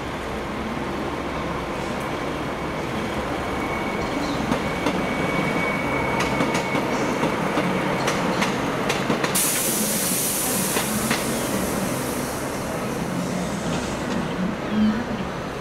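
A train running past at close range, a steady rumble with wheels clicking over rail joints for several seconds. A burst of hissing air about nine seconds in lasts around three seconds.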